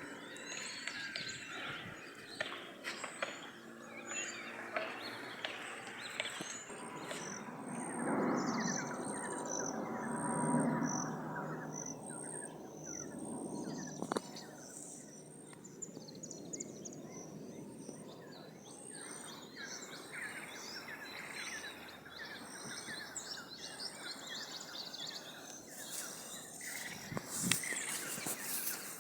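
Wild birds chirping and calling over a steady outdoor background hiss that swells for a few seconds near the middle.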